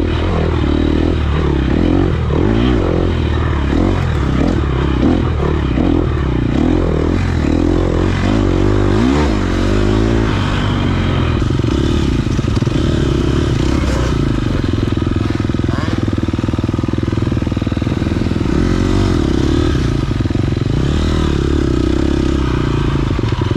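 Dirt bike engine running under load, its pitch rising and falling with the throttle through roughly the first ten seconds, then holding steadier.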